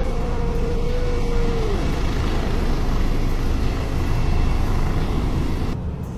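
Storm wind and heavy sea surf rushing in a loud, steady roar, heaviest in the low end, with a thin whistling tone that bends down and fades about two seconds in. The roar drops off abruptly shortly before the end.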